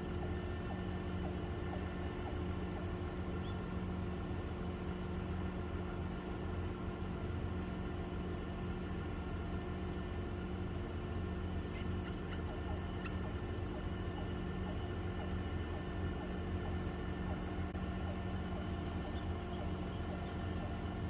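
Steady electrical hum with a constant high-pitched whine over a low buzz, unchanging throughout, with a few faint ticks.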